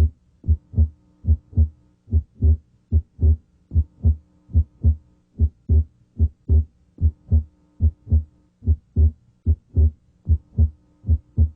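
Heart sounds heard through a stethoscope diaphragm at the left second interspace: a steady lub-dub rhythm of paired low thumps. The second sound is split abnormally wide, and the split comes and goes with the patient's deep breathing.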